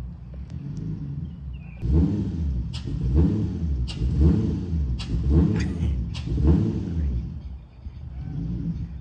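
Nissan VQ V6 engine idling, then blipped hard about five times in quick succession, roughly one rev a second, with sharp cracks at several of the revs, before settling back to idle.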